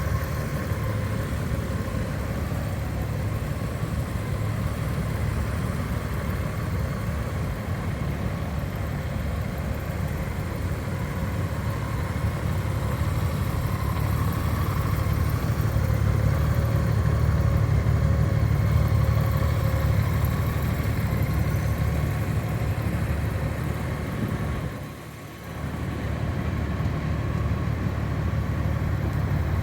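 A Honda Gold Wing's flat-six engine idling steadily, with a brief dip in loudness near the end.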